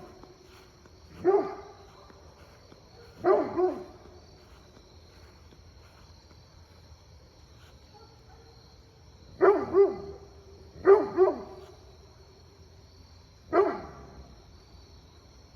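Dog barking in five short bouts of one or two barks each, with long pauses between, over a steady high chirring of insects.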